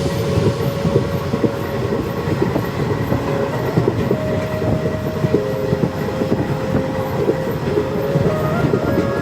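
Passenger train running on the rails, its wheels and coach clattering irregularly, with a steady whine held under the rattle.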